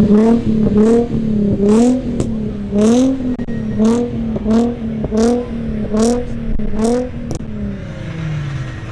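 A car engine revved in quick repeated throttle blips, about a dozen in seven seconds, each a short rising whine with a sharp snap. Near the end the revs fall back toward idle.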